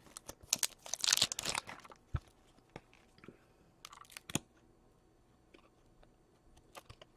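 Trading cards and pack wrappers being handled: scattered sharp clicks and snaps with short bursts of crinkling and rustling, busiest in the first two seconds and then sparse.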